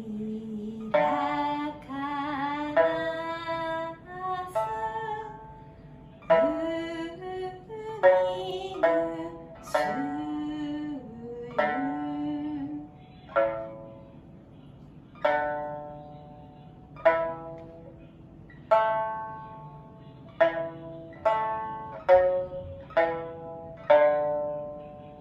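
A plucked string instrument playing a slow melody in single notes that ring and fade. In roughly the first half a voice sings long, bending notes over it.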